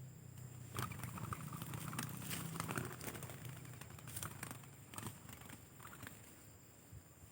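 Rustling and crackling: a run of sharp clicks and crinkles, densest in the first half, over a faint low hum that fades out about halfway.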